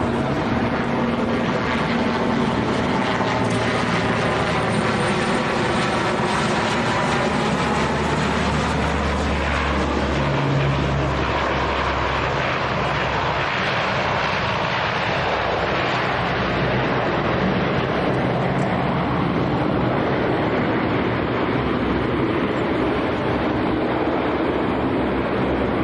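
Aircraft engines running loud and steady as an aircraft passes, with sweeping tones in the first several seconds. The hiss fades from about eight seconds in as it draws away.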